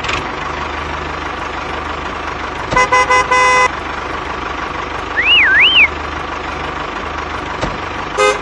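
A truck engine runs steadily under a horn that honks in a few short toots about three seconds in and twice more near the end. A little past the middle, a high whistle warbles up and down twice.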